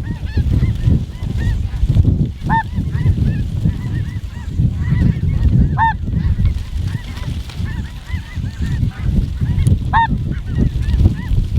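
A flock of snow geese calling, many overlapping short honks with a few louder ones standing out, over a steady low rumble.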